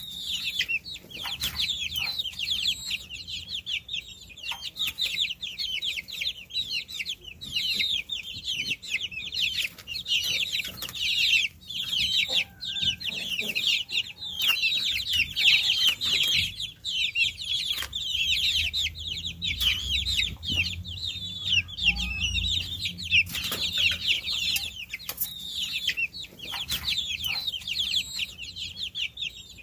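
A brood of baby chicks peeping without pause, many short, high chirps overlapping.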